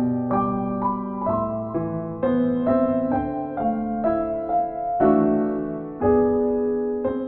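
Solo piano music, notes and chords struck every half second or so and left to ring.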